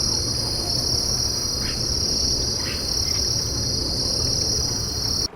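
Steady, high-pitched chorus of rainforest insects with a slight pulsing, with two faint short descending calls over it in the middle; the chorus cuts off suddenly near the end.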